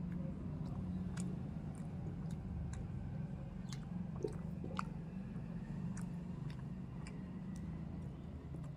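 Close-up chewing of roti and vegetable curry eaten by hand, with many small wet mouth clicks and smacks. A steady low hum runs underneath.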